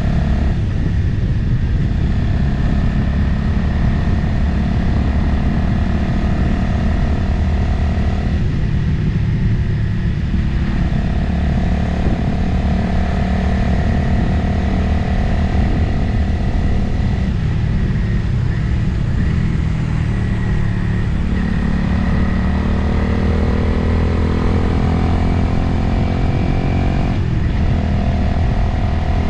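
Motorcycle engine running while riding along a road, mixed with wind noise. The engine note breaks and changes pitch a few times, about nine seconds in, again around eighteen to twenty seconds, and near the end, as the throttle eases and picks up again.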